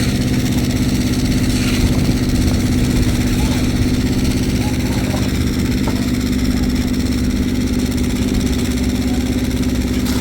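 An engine running steadily at constant speed, its hum even throughout, with faint voices in the background.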